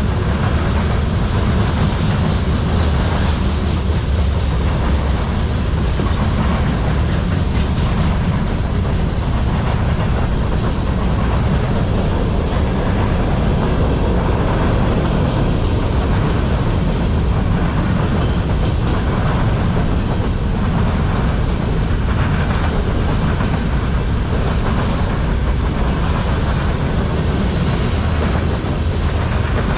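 Manifest freight train rolling steadily past, its cars' wheels rumbling loudly on the rails.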